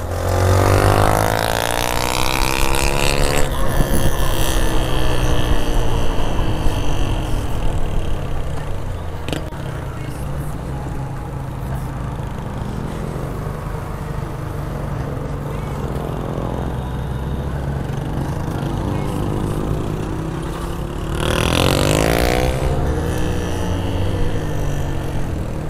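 Yamaha XJ6 inline-four engine heard from the rider's seat. It revs up as the bike accelerates in the first few seconds, runs steadily at cruising speed, then revs up again a little past the twenty-second mark, with wind rushing over the microphone.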